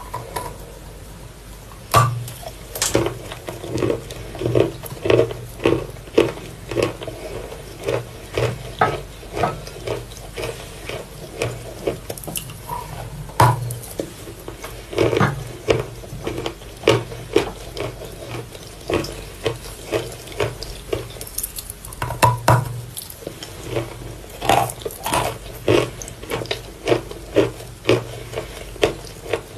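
Wet Volokonovka chalk being bitten and chewed close to the microphone: a run of soft crunches and crackles, about one to two a second, beginning about two seconds in.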